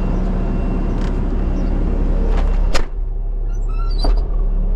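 Bobcat skid steer engine running steadily at idle, with a sharp clunk about three seconds in, followed by a few brief high chirps.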